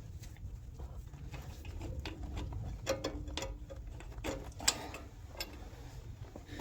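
Metal clinks and taps as the fuel tank filler fittings on a 1913 Richard Hornsby portable engine are handled and tried, a few sharp clicks with short metallic ringing, the loudest about three seconds in and just before five seconds.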